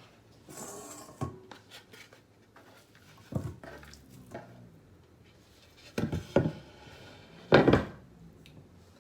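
Dishes and kitchen utensils knocking and clinking as things are set down and handled: a few separate knocks, the loudest about seven and a half seconds in.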